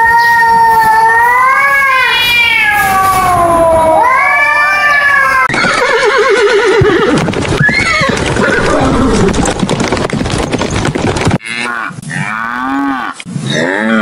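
Two cats yowling at each other in a standoff: two long, wavering howls that rise and fall in pitch, lasting about five seconds. Then a pony whinnies with a quavering call. Near the end calves start bawling in short, repeated calls.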